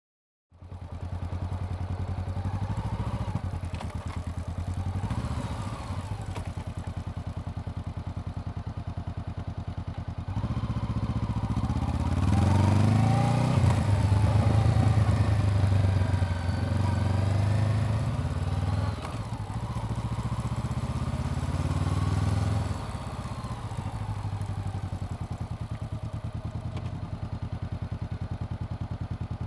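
Honda CBR400R's parallel-twin engine running while riding, its revs rising and falling; it grows louder about ten seconds in and eases back after about twenty seconds. The sound cuts in abruptly half a second in.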